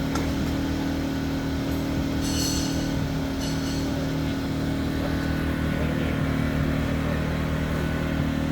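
Tsuzumi TIG 2000 IS inverter generator's small engine running at a steady speed. A brief high-pitched sound comes twice, about two and three and a half seconds in.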